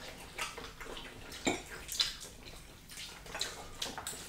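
Wet chewing and lip-smacking of people eating fried chicken and mac and cheese, with a few sharp clicks and smacks, the strongest about one and a half and two seconds in.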